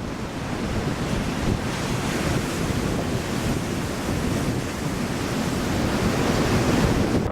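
Storm waves on Lake Michigan surging and breaking, with strong wind buffeting the microphone; a steady rush that swells slightly near the end.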